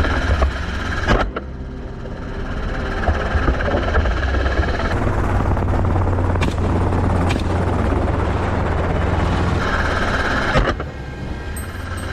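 Helicopter running in flight: a steady low rotor and engine rumble with a wash of noise, changing abruptly a second in and near the end.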